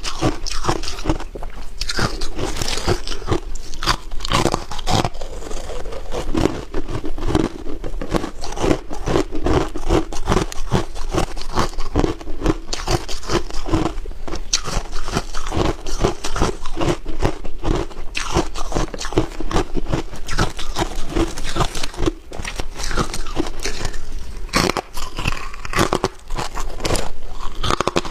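Ice being bitten and chewed close to the microphone: a dense, unbroken run of sharp crunches, several a second.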